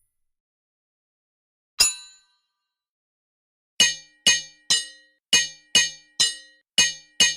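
Hammer striking metal with a short ringing clang. One strike comes about two seconds in, then a steady run of strikes at about two a second.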